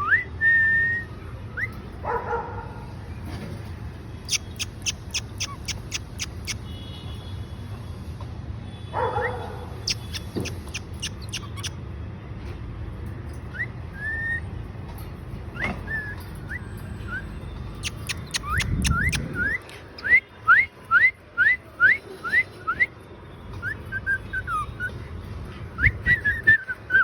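Cockatiel whistling in short rising chirps, at times in a quick series about two a second, with several runs of rapid sharp clicks between them.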